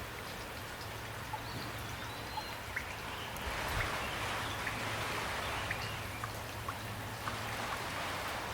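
Steady rain falling, with individual drops striking close by now and then as separate ticks.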